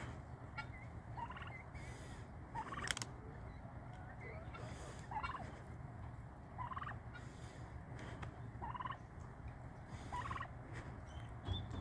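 Domestic tom turkey gobbling over and over, a short rattling gobble about every two seconds.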